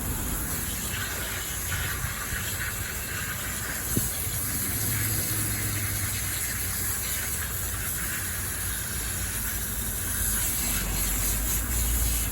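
Steady hissing spray from a cleaning nozzle working over the RC car, with one short click about four seconds in and a low rumble coming in near the end.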